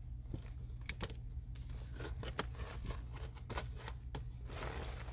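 Tape being handled and pressed onto a duct seam: scattered crinkling clicks, then a longer rustle near the end, over a steady low hum.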